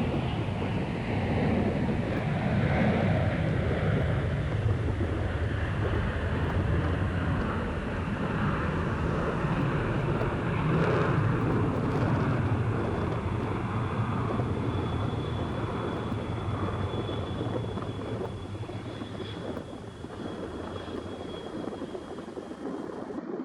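Jet airliner engines at takeoff power as the plane rolls and climbs out, the noise fading gradually over the second half. A thin, steady high whine joins about halfway through.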